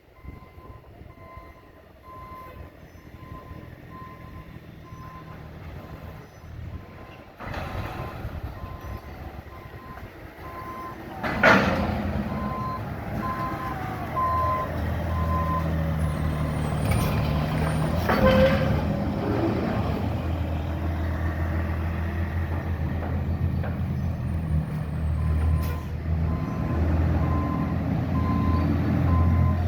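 Container delivery truck reversing, its backup alarm beeping steadily. About 11 seconds in comes a sharp hiss from its air brakes, then a second one around 18 seconds. The engine runs louder after the first hiss, and the beeping stops for a while and comes back near the end.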